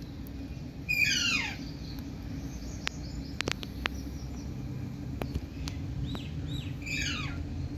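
Indian green parrot giving two harsh screeching calls that sweep down in pitch, one about a second in and one near the end, with a few short, softer chirps just before the second. A few sharp clicks fall in between, over a steady low rumble.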